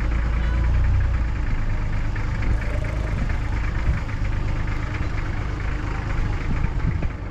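Safari vehicle's engine running at low speed while the vehicle creeps along, a steady low hum, heaviest in the first second or so.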